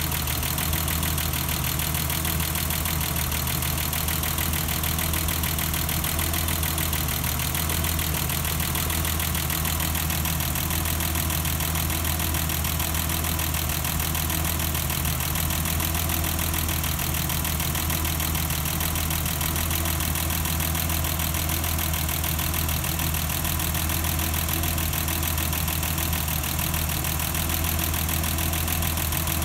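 BMW M20B25 2.5-litre inline-six engine of a 1989 325i idling steadily, an even low hum.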